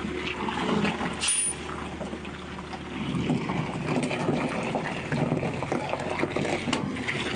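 Heavy truck on the move: a steady low engine hum under irregular rattling and knocking.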